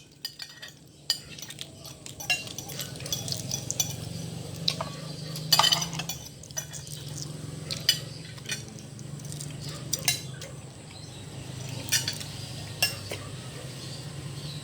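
Cutlery clinking and scraping on a plate during eating: irregular sharp clicks, the loudest about halfway through, over a steady low hum.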